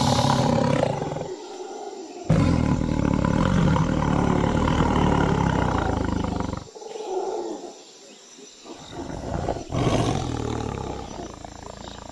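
Big-cat roars played as recorded sound effects for a staged animal fight: three roars, the middle one long, about four seconds.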